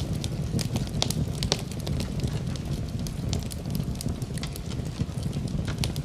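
Campfire crackling, with many sharp irregular pops over a steady low rumble.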